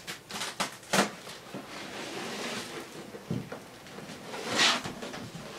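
Floor-removal work: a few sharp knocks, the loudest about a second in, then scraping and a loud rustle a little over four seconds in, as cut pieces of old linoleum flooring are handled.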